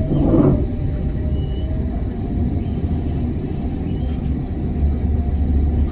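Amsterdam tram in motion, heard from inside the car: a steady low rumble of the running tram, with a brief louder noise just after the start and a faint steady whine that fades out about two seconds in.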